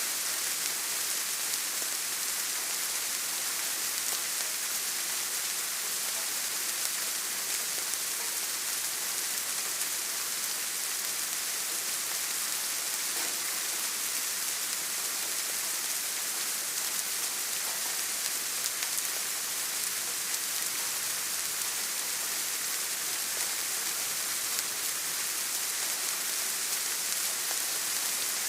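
Steady rain falling, an even hiss of many drops with no distinct individual strikes.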